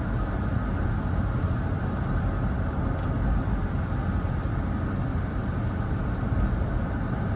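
Steady road and engine noise of a 2021 Toyota Tacoma pickup being driven, a constant low rumble with no change in pace.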